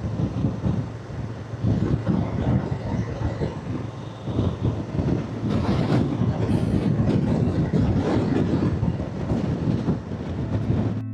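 Motorcycle on the move: engine running under an uneven rumble of wind rushing over the microphone.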